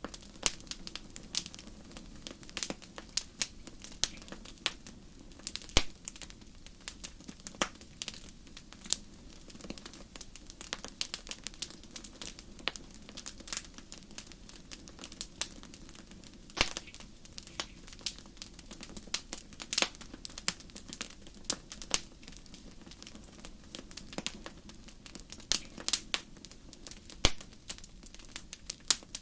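Wood fire burning in a fireplace: irregular sharp crackles and pops from the burning logs, some much louder than the rest, over a soft steady low rumble of the flames.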